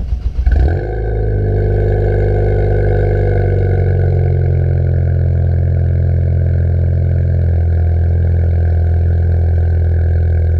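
Ford Fiesta ST's turbocharged engine through an MBRP 3-inch aftermarket exhaust, firing up with a brief rev flare and then settling into a steady idle. The idle note steps down slightly about seven seconds in.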